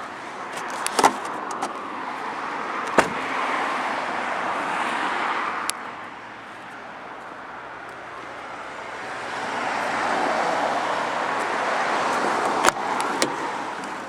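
A Toyota Avensis's electric windows running: two long stretches of motor and glass-in-seal rushing, each ending suddenly in a sharp clunk as the glass reaches the end of its travel. A few small clicks near the start are switch presses.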